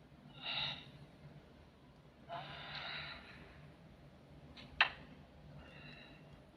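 Breathy human vocal sounds, like gasps and sighs, three short ones spaced a couple of seconds apart, with a single sharp click just before the last one.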